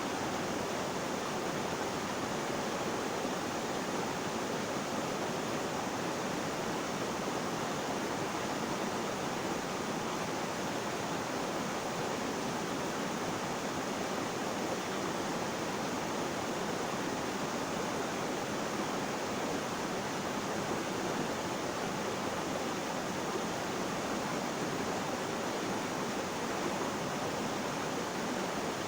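Flowing water rushing steadily, an even unbroken hiss with no splashes or changes.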